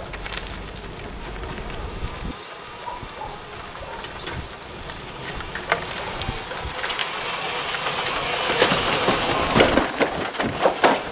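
Narrow-gauge industrial train running on light track, its wheels knocking over the rail joints. It grows louder over the last few seconds as it comes closer.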